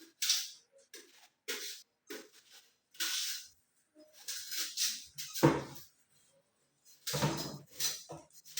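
Knife peeling a raw yam: short, irregular scraping strokes as the skin is pared off, with a heavier knock about five and a half seconds in and another about seven seconds in.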